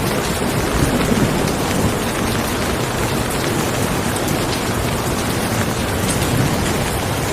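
Steady heavy rain, a dense even hiss, with low thunder rumbles swelling briefly about a second in and again near the end.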